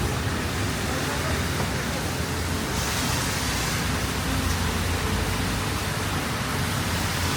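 Steady wind noise from a snowstorm's strong winds, an even hiss with a low rumble beneath.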